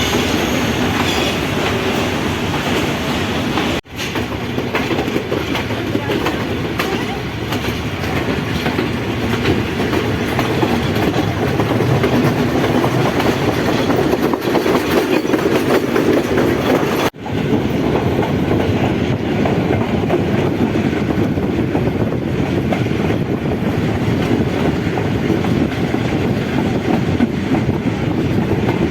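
Passenger train running along the track, heard from on board: a steady rumble with wheels clattering over the rails. The sound cuts out for an instant twice, about 4 and 17 seconds in.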